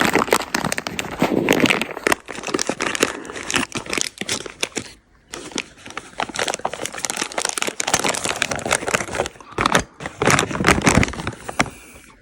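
Plastic parts packaging crinkling and crackling in the hands, irregular and on and off, as the new pack holding rivets, stays and a catch housing is handled.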